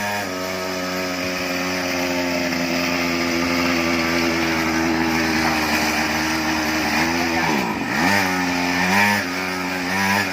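Mini bike's small engine running at a steady speed. About three-quarters of the way through, the revs dip sharply and come back, then it is revved up briefly twice.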